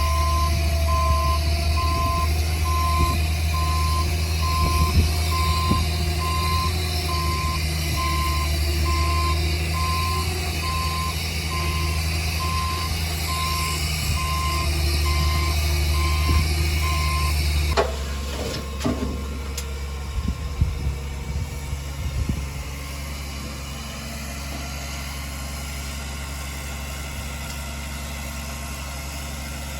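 Heavy diesel earthmoving machine running with its reversing alarm sounding evenly spaced beeps at a single pitch. Past the middle the beeping stops and the engine settles to a quieter steady idle, with a few short knocks just after.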